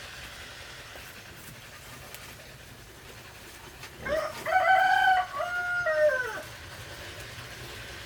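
A rooster crowing once, about four seconds in: one long call that rises, holds and falls away at the end.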